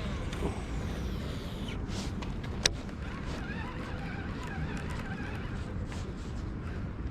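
Steady low roar of water pouring over a river spillway, with one sharp click about two and a half seconds in.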